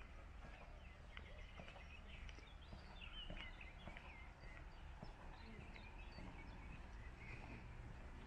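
Several birds chirping and singing in short, quick phrases over a low, steady outdoor rumble.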